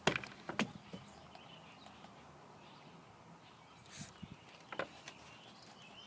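Quiet outdoor background with faint, distant bird chirps, and a few short taps and knocks, mostly near the start and again about four seconds in.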